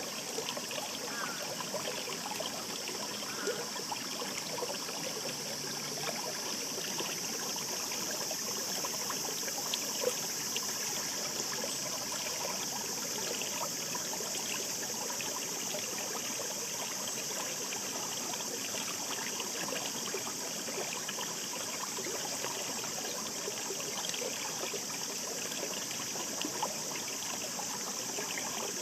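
Shallow mountain stream babbling, a steady rush of water with many small trickling splashes.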